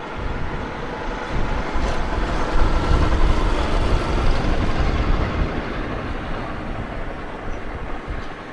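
Aircraft passing low in a flyby: a loud, rumbling roar with a steady tone in it that builds to a peak about three seconds in and then slowly fades.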